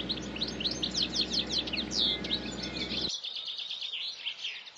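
Birds singing and chirping, a dense run of quick, high, falling chirps. Under it a low steady hum stops suddenly about three seconds in.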